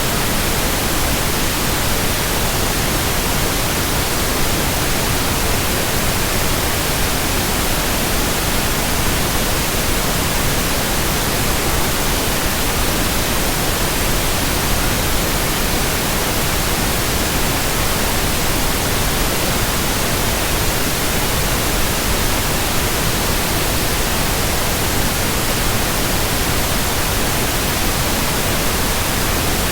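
Steady white-noise hiss, even from low to high pitch, with no change, rhythm or separate sounds in it.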